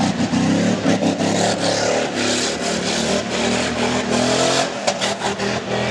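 Stock pickup truck's engine revving hard under load, its pitch climbing and dipping as the driver works the throttle, with scattered knocks and clatter from the truck jolting over the course.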